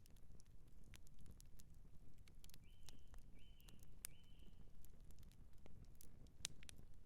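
Campfire crackling: irregular sharp pops and snaps over a low, steady rumble. Three short high chirps sound close together about three to four seconds in.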